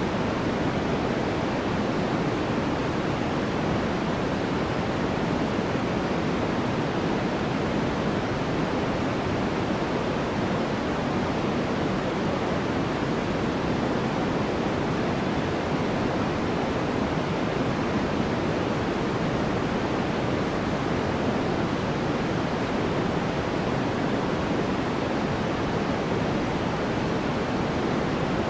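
Continuous generated sleep noise, sold as white noise, perfectly steady with no changes or events. It is weighted toward the low and middle range, more a deep rush than a bright hiss.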